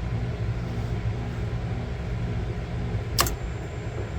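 Belt-driven hood exhaust fan running with a steady low hum, with one sharp click about three seconds in. The technician blames its motor for repeatedly tripping the overload.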